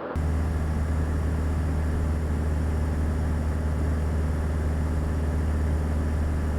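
Steady cabin drone of a Beechcraft Sundowner's four-cylinder Lycoming O-360 engine and propeller in flight, cutting in abruptly at the start.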